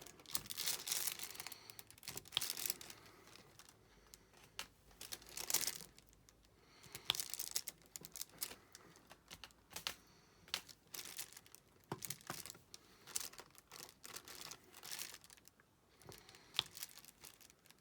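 Irregular crinkling and light clicks and taps from diamond painting: plastic being handled and resin drills being picked up and pressed onto the adhesive canvas. Short louder bursts come now and then, with quieter gaps between.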